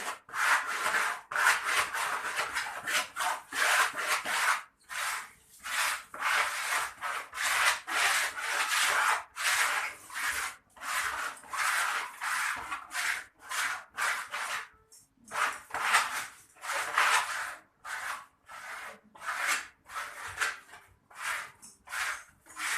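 Repeated rasping strokes, a couple a second, coming in runs with short pauses.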